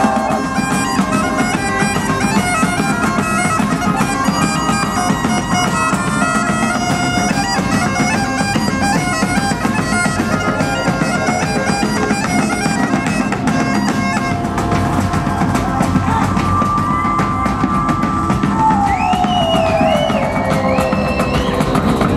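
Highland bagpipes playing a fast melody over their steady drone, backed by pounding tribal drums. About fourteen seconds in the pipe tune breaks off into a held note, then a pipe note slides down in pitch while the drumming continues.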